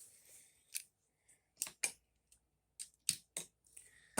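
About eight light, sharp clicks and taps at irregular intervals: a die-cast toy car and plastic track parts being handled as the car is set into the starting gate.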